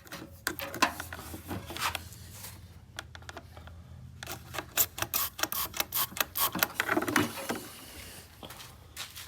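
Small lawn-tractor engine, a 6 horsepower Tecumseh, giving a low steady hum under irregular mechanical clicking and clattering, loudest in the middle stretch.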